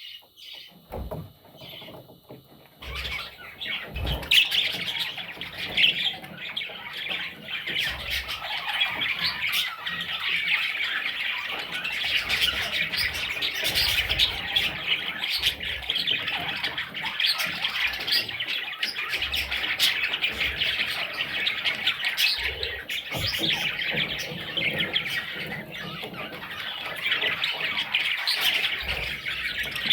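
Budgerigar chicks squawking and chirping: a few short chirps at first, then a dense, continuous chatter of squawks from about three seconds in.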